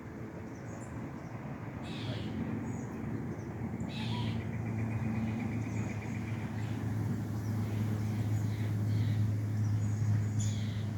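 Wild songbirds chirping in short calls, with one rapid trill partway through, over a steady low mechanical hum that grows louder from about two seconds in.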